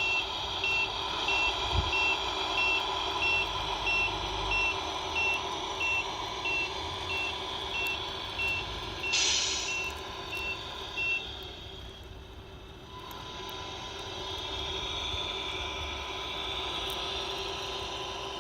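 Sound unit of a Tamiya RC Mercedes Actros truck playing a high reversing beeper, about two and a half beeps a second, that stops about 11 seconds in. A short air-brake hiss comes about 9 seconds in, over the steady sound of the truck running.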